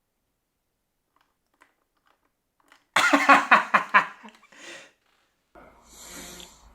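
A short burst of laughter, rapid repeated "ha" pulses starting about three seconds in and fading out after about a second and a half, followed by faint low noise near the end.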